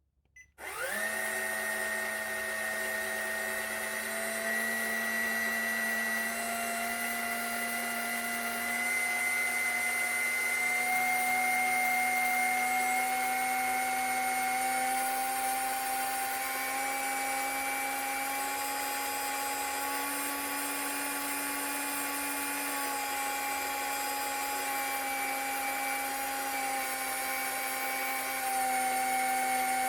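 A CaDA M motor, a small Power Functions-compatible toy motor, spins up about half a second in and then runs unloaded with a steady whine. Its pitch shifts slightly a few times.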